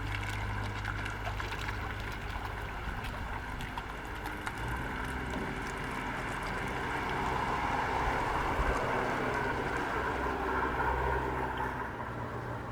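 A motor boat's engine running steadily as it passes, with a rush of water that grows louder in the second half.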